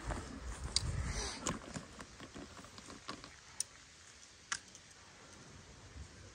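Handling noise as a camera is moved and set down on grass, a low rumbling at first, followed by a few separate sharp clicks.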